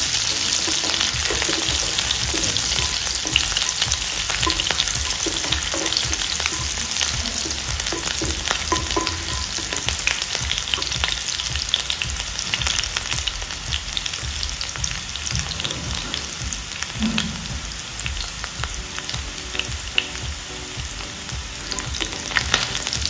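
Chopped garlic and green chillies sizzling in a little hot oil in a nonstick kadhai, stirred with a wooden spatula: a steady frying hiss full of small crackles and pops.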